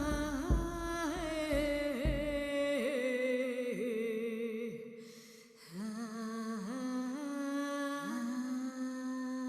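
A voice singing a wordless, humming melody with a wavering pitch, over a low drum beating about twice a second that stops after about two and a half seconds. After a short dip just past the middle, the voice holds long notes, each sliding up into pitch.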